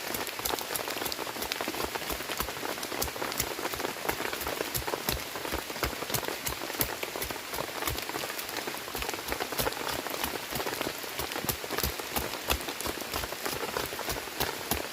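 Heavy rain falling steadily, a dense hiss with many sharp individual drops hitting close by.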